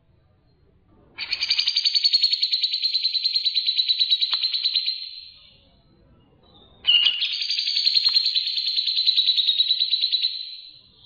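Songbird singing two long bouts of fast, pulsing chatter, each lasting about four seconds, the second starting about seven seconds in.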